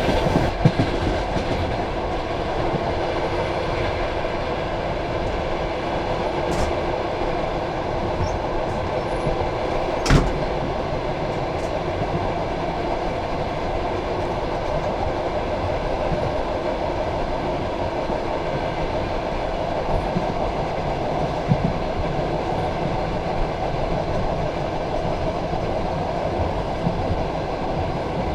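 Passenger train carriage rolling along the track, heard from inside the coach: a steady rumble of wheels on rail with a few light clacks. There is one sharp knock about ten seconds in.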